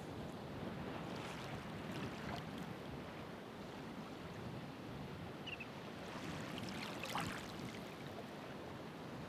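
Ocean waves washing in, as a steady rumbling surf. Louder waves break with a hiss of foam about a second in and again around seven seconds in; the second is the loudest.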